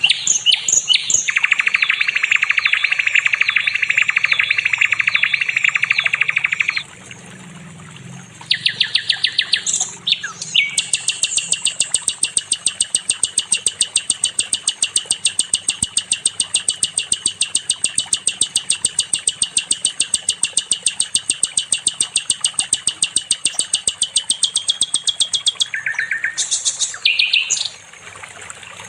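Sikatan londo songbird singing long, very fast rattling trills. The longest trill runs about fifteen seconds without a break, and short bright phrases follow near the end.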